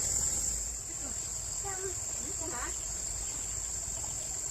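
Steady, high-pitched insect chorus, with a faint voice briefly in the middle.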